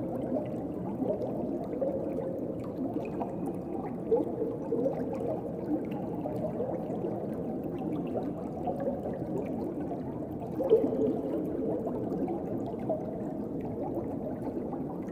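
Underwater ocean ambience: a continuous, muffled gurgling and bubbling of water, with brief louder swells about four seconds in and again near eleven seconds.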